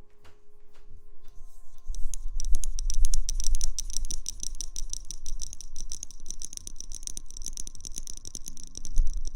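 Rapid, dense crackling and scratching rustles close to the microphone, starting about two seconds in, with a low rumble of handling on the mic.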